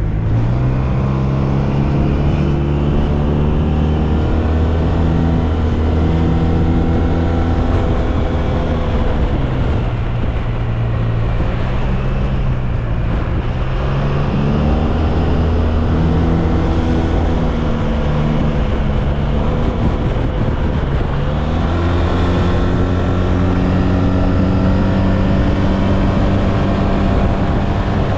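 SYM Maxsym TL 508 maxi-scooter's engine running under way, its pitch climbing with throttle and dropping back off three times, over a steady rush of wind and road noise.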